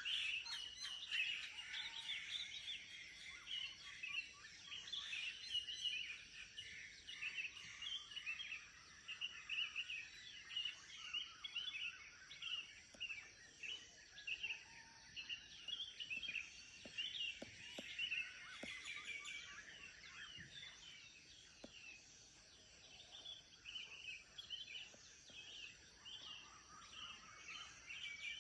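Many small birds chirping and calling over one another in a busy morning chorus, with rapid overlapping chirps throughout.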